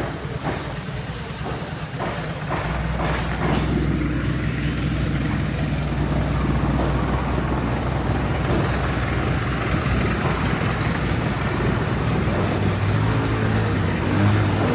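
A large engine running steadily with a low hum, coming in about two and a half seconds in and holding through, with a few short knocks around the same time.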